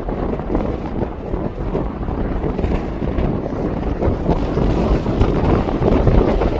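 Strong wind buffeting the microphone, a steady low rumble without clear pitch.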